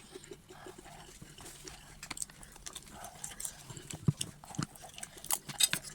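Eating sounds close to the microphone: chewing and wet mouth smacks, with a quick run of sharp clicks about five seconds in.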